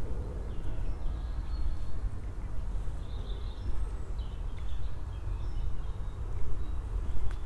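Outdoor ambience: a steady low rumble, with faint small-bird chirps scattered through and the walker's footsteps. A sharp click comes near the end.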